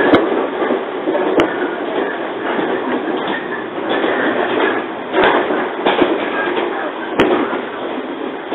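Running noise inside a JR 115-series electric train car: a steady rumble of wheels on rail that swells and eases, with three sharp clicks scattered through it.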